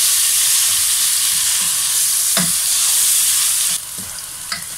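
Ginger-garlic paste, sliced onions and whole dried red chillies sizzling in hot mustard oil in a kadhai, stirred with a wooden spatula. The sizzle drops sharply near the end.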